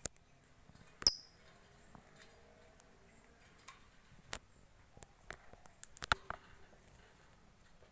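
A lovebird's single short, sharp high squeak about a second in, amid scattered small clicks and taps, with a cluster of clicks around six seconds in; no long chattering trill.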